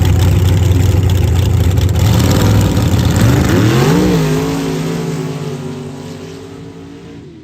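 Dirt drag racing vehicle making a full-throttle pass: a very loud engine blast, then about three seconds in an engine note rises in pitch, levels off and fades away over the last few seconds.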